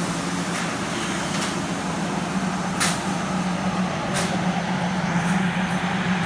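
CNC plasma cutting machine running: a steady hum under a continuous hiss, with a few sharp clicks, the loudest about three seconds in and another about four seconds in.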